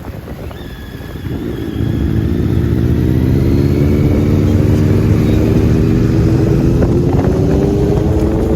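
Motorcycle engine accelerating steadily, its pitch climbing slowly and the sound getting louder about two seconds in.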